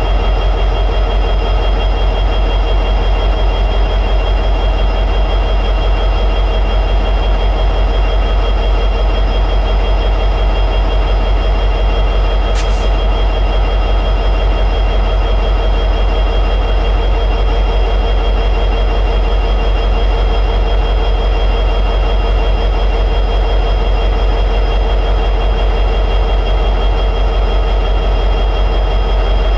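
EMD 710G3B two-stroke diesel prime mover of an SD60E locomotive running steadily in high idle, a loud even drone with a faint steady whine on top.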